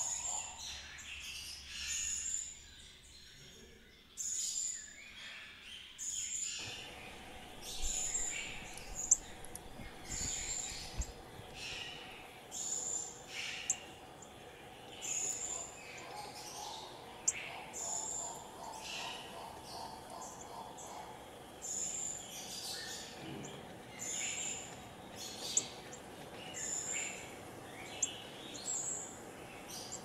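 Wild songbirds calling and singing. One high, thin call repeats about every two seconds, with other chirps and short phrases between.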